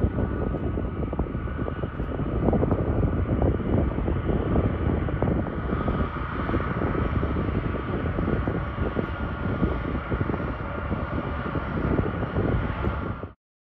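Boeing C-17A Globemaster III's four turbofan jet engines running loud: a dense rumble with a steady whine over it. The sound cuts off suddenly near the end.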